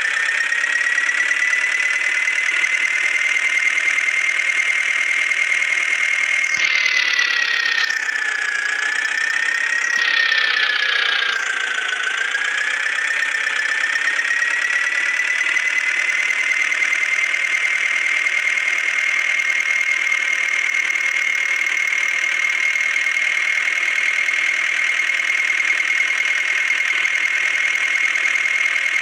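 Eicher tractor's diesel engine running steadily with a high whine. About seven and ten seconds in, the pitch dips and wavers during two brief harsher stretches, then it settles back to a steady run.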